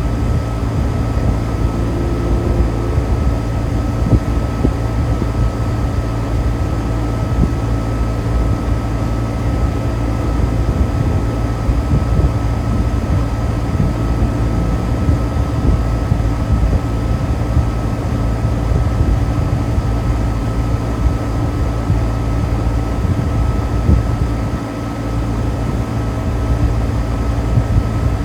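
Outdoor air-conditioner condensing unit running: a steady hum from the compressor and condenser fan, with a constant whine over it.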